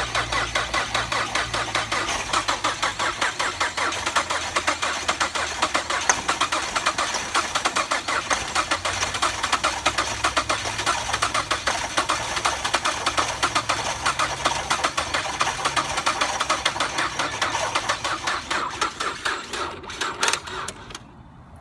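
2006 Ford Fusion's starter, jumped with a wire at the starter bolt, cranking the engine over in steady rhythmic pulses without it catching, stopping about a second before the end. The anti-theft immobilizer keeps it from starting.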